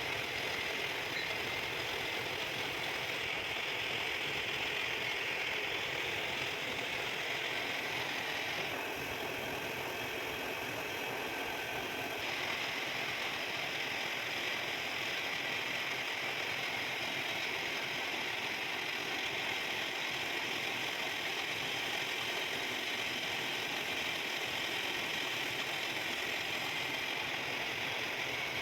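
Metal-cutting machine tool running steadily, a dense, even mechanical noise with a rattling, gear-like texture and no breaks.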